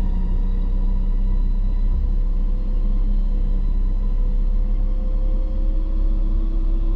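Vehicle engine running steadily under a deep, constant rumble, its pitch sagging slightly and then rising again about halfway through, as when driving.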